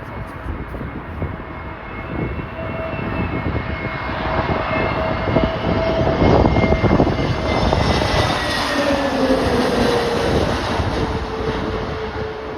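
Jet airliner on approach passing close by: the whine of its engines grows louder, then drops in pitch as it goes past. Gusty wind rumbles on the microphone.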